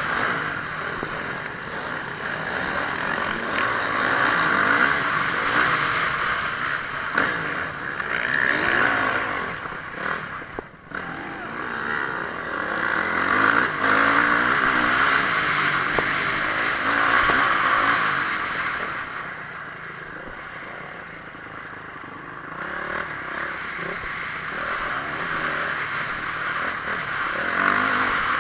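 Honda CRF450R's single-cylinder four-stroke motocross engine being ridden hard, its revs rising and falling with throttle and gear changes. The sound drops out sharply for a moment about eleven seconds in and runs quieter for a few seconds past the middle.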